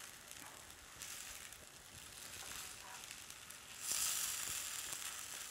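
Corn-masa, potato and tuna patties sizzling in a thin film of oil on an electric griddle, with a few faint clicks; the sizzle grows louder about four seconds in.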